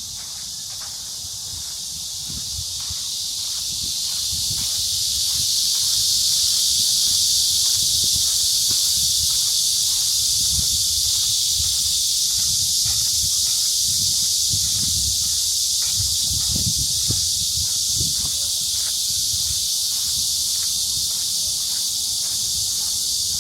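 A chorus of cicadas buzzing in a steady, high-pitched hiss that swells over the first few seconds and then holds. Beneath it are soft, even footsteps on a path.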